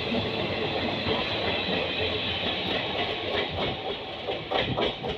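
Passenger coaches of a departing train rolling over the rail joints: a steady rumble with clicking wheel beats that grow sharper near the end as the last coach passes.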